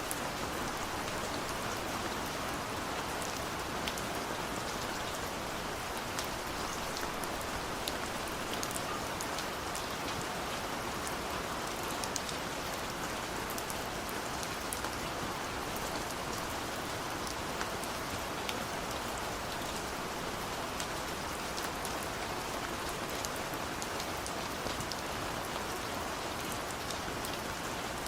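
Steady rain falling, an even hiss of rainfall with many individual drops ticking on a surface.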